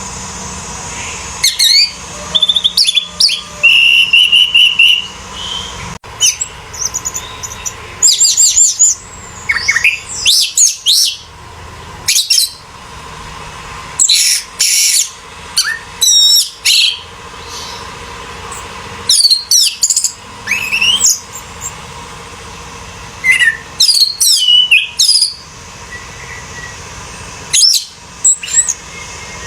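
Orange-headed thrush singing: loud bursts of rapid, varied whistled phrases, repeated every few seconds with short pauses between them.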